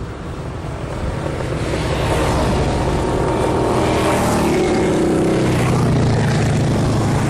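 Motorcycle engines running, growing louder over the first two seconds as they come closer, then holding steady.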